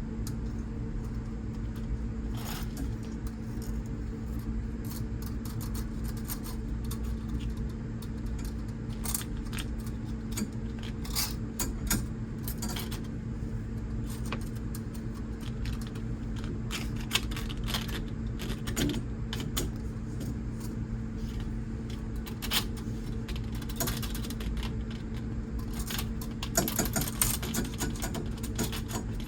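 Wire coat-hanger hook scraping and clicking against a metal object stuck inside a pipe, as short, irregular clicks that come thickest near the end. A steady low hum runs underneath.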